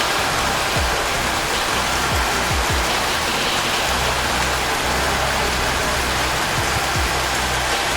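Steady rain hissing without a break, over soft background music with low held tones. Every second or two there is a short low sound that drops in pitch.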